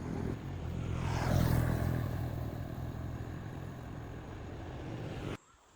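A motor vehicle passing by, its engine and road noise swelling to a peak about a second and a half in and then fading, until the sound cuts off abruptly near the end.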